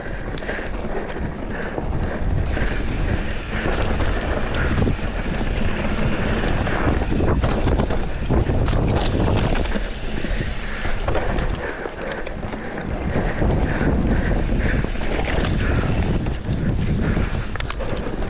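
Wind buffeting the microphone with the rumble and rattle of a mountain bike riding fast downhill on a trail.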